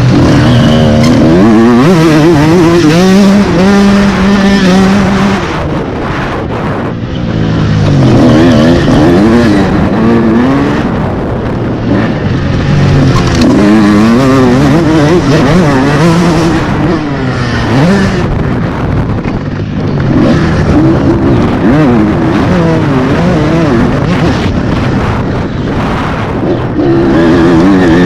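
125 motocross bike engine revving up through the gears and backing off again and again, its pitch climbing and dropping with each burst of throttle, with a few quieter stretches where it is shut off.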